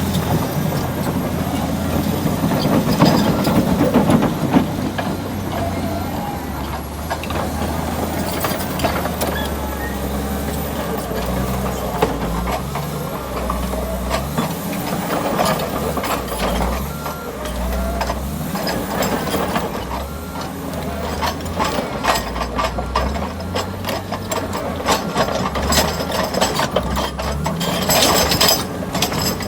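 Crawler bulldozer's diesel engine working under changing load, its pitch rising and falling, with clanks and knocks from the tracks and blade that come thicker near the end.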